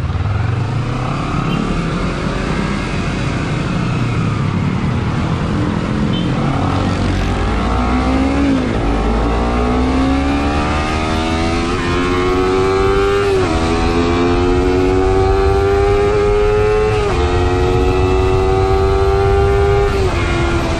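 Motorcycle engine accelerating through the gears. Its pitch climbs steadily and drops sharply at each upshift, several times in the second half, over a low wind rumble that a foam camera case keeps partly damped.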